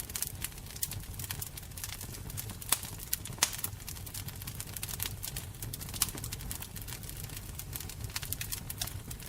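Fire crackling: a steady low roar with many irregular sharp pops, a few louder ones about three and six seconds in.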